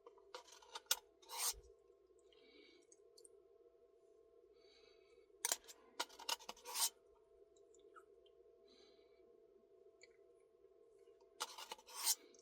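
Short bouts of scraping and clicking from eating a Blizzard with a spoon, three times, over a faint steady hum.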